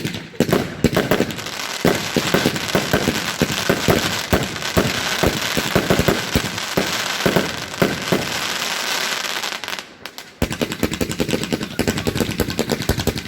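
Celtic Fireworks consumer firework going off in a dense run of rapid pops and crackles. It breaks off briefly near the ten-second mark, then starts again with another fast run of pops.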